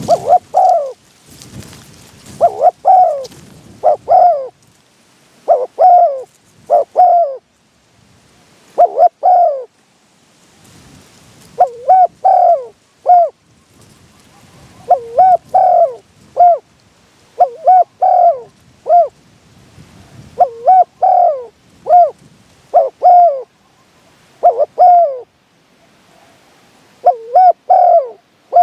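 Spotted dove cooing: short phrases of two to four coos, repeated every couple of seconds throughout.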